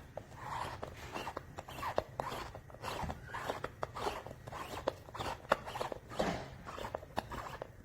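Donner drum throne being handled: a run of irregular clicks, light knocks and short scraping or rustling noises from its frame and padded seat.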